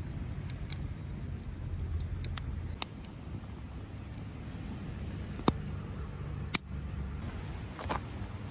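A handful of sharp, scattered clicks or pops, the loudest about five and a half seconds in, over a low steady rumble.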